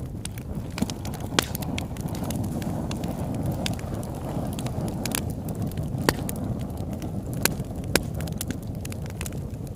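Campfire burning with a steady low rush of flames and scattered sharp pops and crackles of burning wood; a few louder pops stand out about a second and a half in and again around six to eight seconds in.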